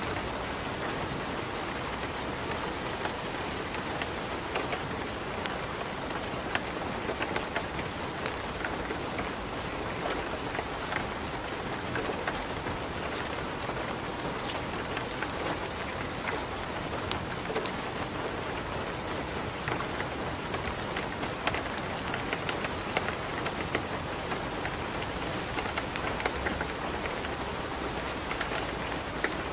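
Steady rain, a constant even hiss with frequent scattered sharp pops and crackles.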